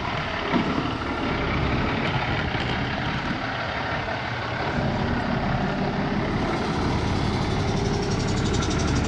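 Engine of a heavy vehicle running steadily while under way, with a constant low rumble and road or mechanical noise.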